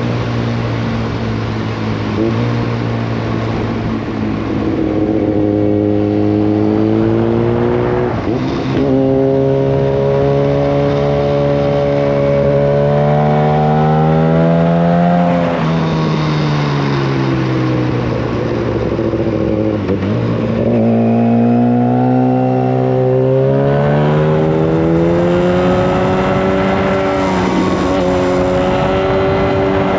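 Yamaha FZ1 Fazer's inline-four engine through a loud Mivv GP exhaust with the dB killer removed, on the move: the revs climb steadily, dip for a gear change about eight seconds in and climb again. Past the middle they fall away for several seconds as the throttle is closed, then pick up again with another shift.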